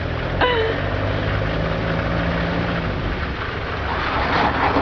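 A vehicle engine running steadily with a low hum, a brief voice-like cry about half a second in, and a rise of rushing noise near the end.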